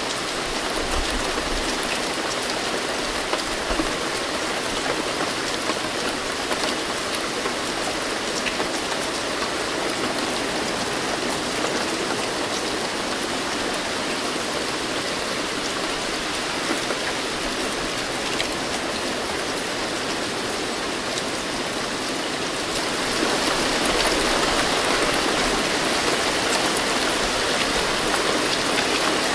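Steady rain falling: a dense hiss of drops with scattered sharper drop taps. About 23 seconds in, the rain grows heavier and louder.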